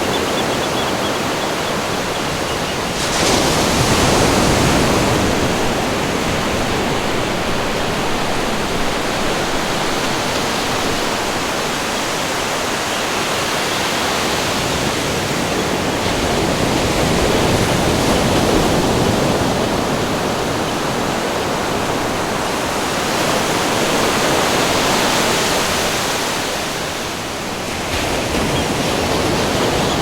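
Ocean surf: a continuous rushing wash of breaking waves, swelling louder with a sudden surge about three seconds in and again around the middle and near the end.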